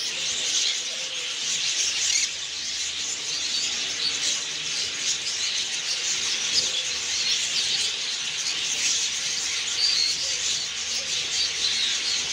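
Many small caged birds chirping and chattering all at once, a dense, continuous high-pitched twittering.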